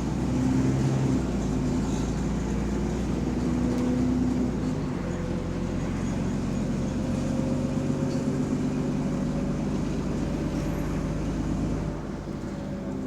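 Bus engine running steadily, its note shifting about five seconds in; this bus has an exhaust leak.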